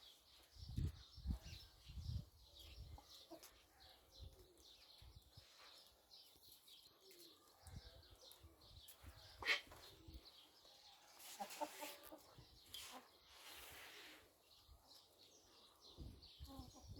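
Faint calls of domestic fowl, with a short run of calls about eleven to twelve seconds in, among low bumps and rustling.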